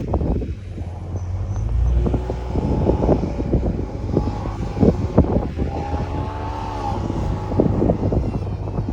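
4x4 vehicle's engine running while driving through snow, its pitch rising and then falling about two-thirds of the way in, over a steady low rumble, with repeated sharp knocks and thumps.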